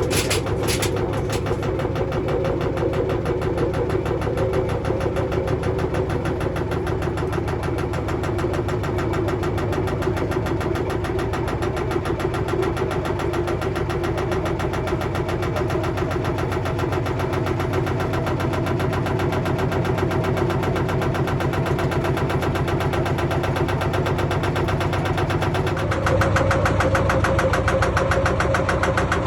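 Beko WTG941B2W washing machine running, with a steady motor whine and a fast, even rattle. About 26 s in it gets louder and a little higher in pitch.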